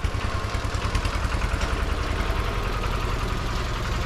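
Voge 300GY dirt bike's engine idling steadily.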